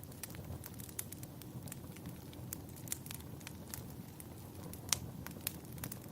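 Wood fire crackling in a fireplace: irregular sharp pops and snaps over a low, steady rumble, with one louder pop about five seconds in.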